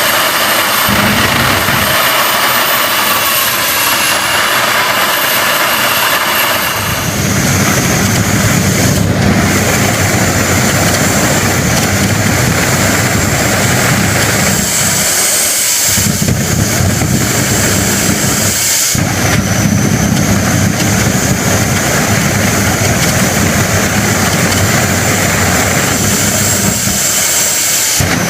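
Homemade jet engine running at a test, a loud steady rushing roar with a high turbine whine. About seven seconds in the whine drops in pitch and a deeper rumble comes in, and the sound briefly dips twice later on.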